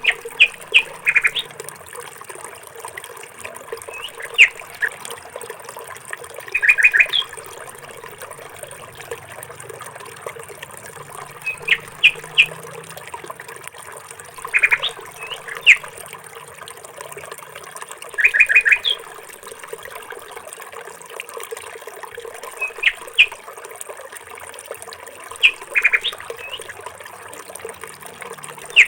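A bird singing short phrases of three or four quick, high chirps, repeated every three to four seconds over a steady faint hiss.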